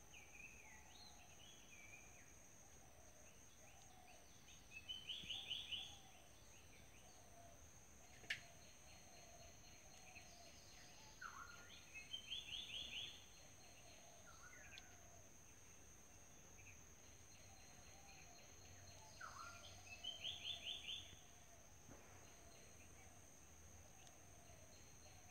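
A small bird singing the same short phrase three times, about seven seconds apart, each phrase ending in a quick trill. A single sharp click about eight seconds in, over a faint steady high-pitched hum.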